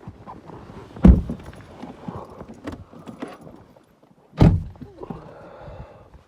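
Two heavy thumps about three seconds apart, like a car door being shut, with rustling and small clicks like keys jangling between them.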